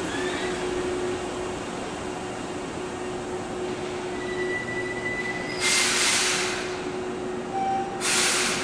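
Electric commuter train at a station platform: a steady rumble with a low hum and a faint high squeal, broken by two loud bursts of compressed-air hiss about six and eight seconds in.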